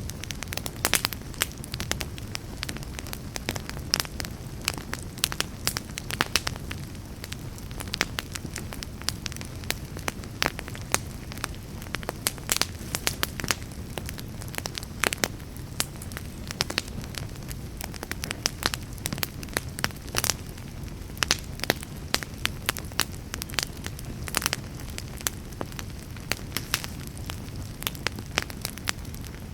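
Fire burning in a fireplace, crackling steadily. Many irregular sharp pops and snaps sound over a low, even rush of flame.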